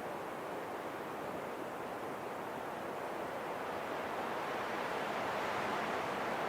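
Wind rushing in a steady, even hiss that slowly swells louder through the second half.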